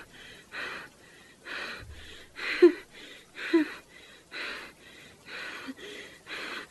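A person breathing hard and fast, gasping in and out about once a second, with a slight catch of voice in a couple of the breaths, as if shaken and out of breath.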